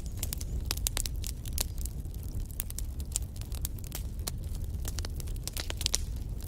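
Wood fire in a fireplace crackling: many sharp, irregular pops and snaps from the burning logs over a steady low rumble of the flames.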